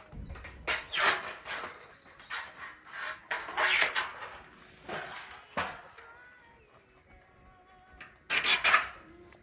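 Handling the parts of a titanium fire pit while unboxing it: a series of short scraping and clattering noises with pauses between, the loudest a few seconds in and again near the end.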